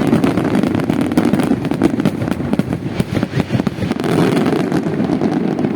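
Fireworks going off in a dense, continuous barrage: many overlapping bangs and crackles over a rumbling din.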